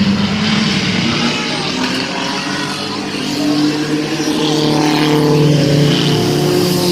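Several mini truck race engines running hard together around the track, their pitches shifting as they rev through the corners and straights; the sound grows louder after about four seconds as the pack comes closer.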